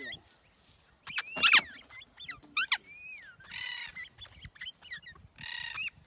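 Parrots calling: a sharp screech about a second in, a few short chirps and whistles, then two harsh squawks, one in the middle and one near the end.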